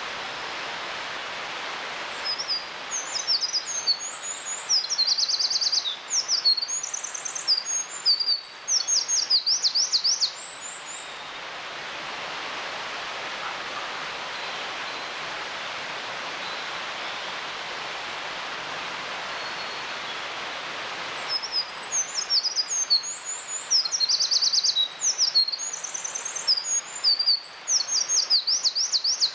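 Eurasian wren singing two long, loud, high songs of fast twittering notes and rapid trills, about ten seconds apart, over a steady rushing background noise.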